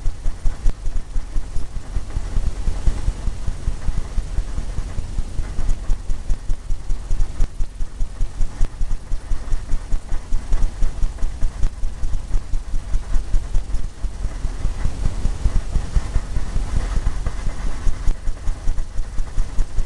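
A stiff filbert brush scrubbing oil paint into a stretched canvas in quick, even back-and-forth strokes, about two to three a second, each stroke thumping the canvas.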